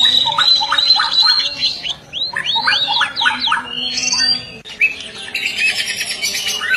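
White-rumped shama singing a rich, varied song without pause: quick whistled notes, sweeping glides and fast chattering trills.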